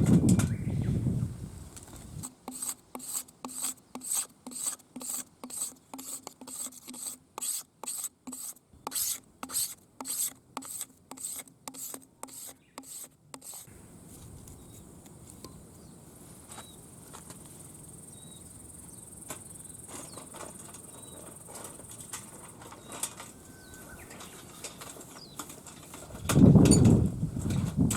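Filing by hand in quick, even back-and-forth strokes, about two a second, for some eleven seconds, then stopping. A loud thump comes near the end.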